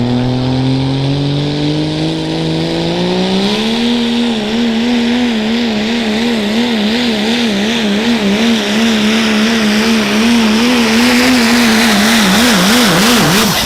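Turbocharged diesel pickup truck engine at full throttle pulling a sled. Its pitch climbs for about four seconds, then holds high while wavering quickly up and down, with a growing hiss above it. Near the end the pitch drops sharply as the throttle comes off.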